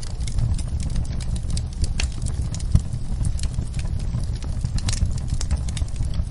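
Wood fire crackling in a fireplace: a steady low rumble with frequent sharp pops and snaps, one louder pop a little under three seconds in.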